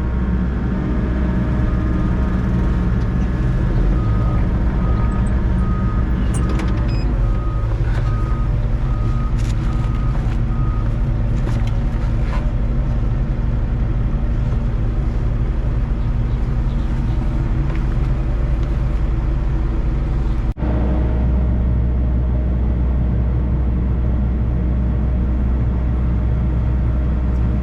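Volvo EC60E mini excavator's diesel engine running steadily under work, with a row of evenly spaced high beeps from about 4 to 11 seconds in and a few sharp knocks. The sound breaks off briefly about 20 seconds in and then carries on.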